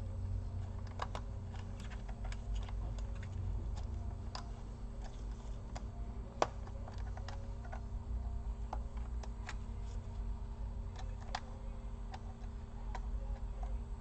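Scattered small clicks and taps of laptop parts being handled and fitted back together during reassembly, with one sharper click about six seconds in, over a low steady hum.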